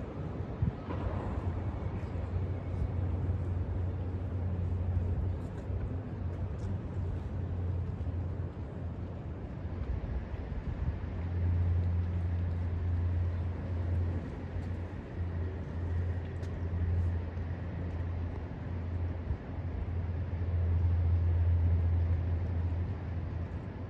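Low outdoor city rumble that swells and fades over several seconds, with a steady hiss of background noise.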